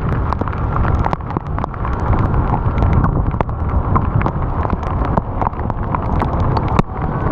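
Wind rushing and buffeting over the microphone while riding in the rain, with many sharp ticks scattered throughout from raindrops striking it.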